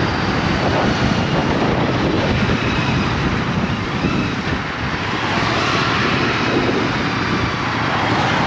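Motorbike being ridden: steady wind rush over the microphone, with the engine running underneath.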